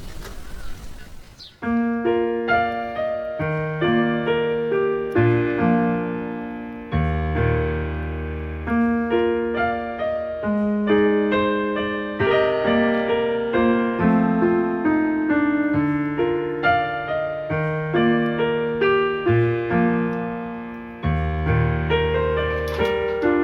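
Background piano music: a gentle melody with bass notes, starting about a second and a half in after a brief noisy tail of a different sound.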